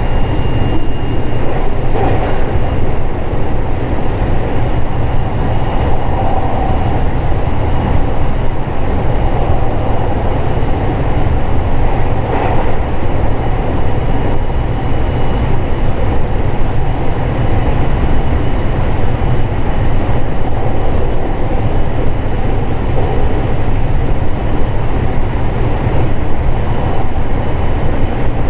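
Running sound inside a JR West 521 series electric train at steady speed: a loud, even rumble of wheels on rail, with a faint steady high tone and a few light clicks.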